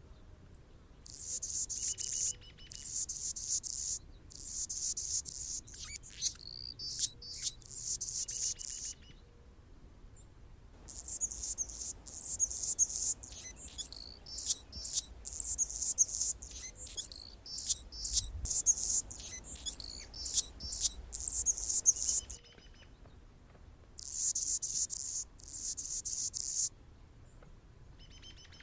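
Anna's hummingbird singing: a high-pitched, buzzy song of rapid chips and squeaks, in three bouts with short pauses between, the longest in the middle.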